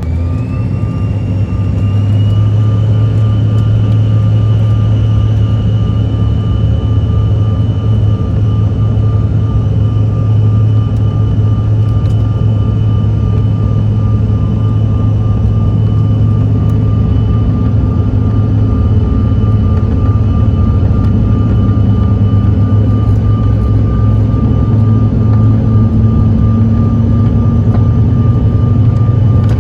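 Inside the cabin of a CRJ900 regional jet as its two rear-mounted GE CF34 turbofans spool up to takeoff thrust. A whine climbs in pitch over about two seconds and then holds steady over a loud low engine drone for the takeoff roll.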